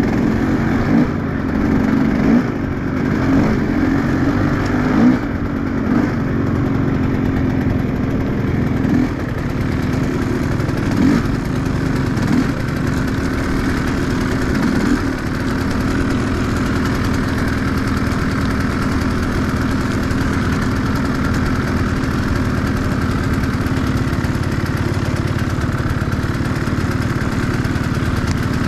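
Enduro motorcycle engine, blipped unevenly for the first fifteen seconds or so, then running steadily at idle.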